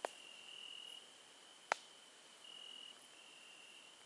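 A cricket's steady high-pitched trill that stops and starts every second or so. A single sharp snap cuts through about halfway, with a fainter click at the very start.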